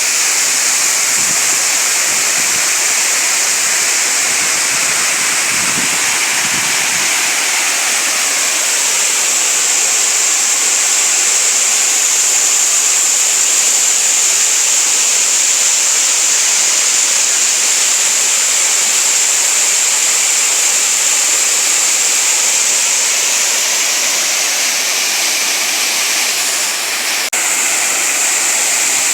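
Waterfall and stream water falling and rushing steadily in a loud, even hiss.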